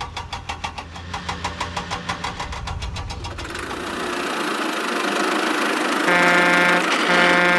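Cartoon vehicle engine sound effect chugging at about six beats a second, changing after about three seconds into a steadier, rougher running noise. Near the end a horn honks twice.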